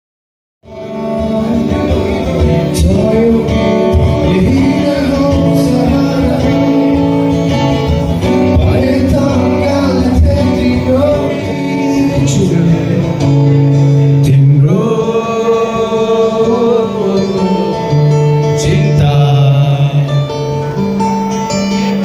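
Acoustic gig music: a man singing over strummed acoustic guitar, cutting in abruptly about half a second in.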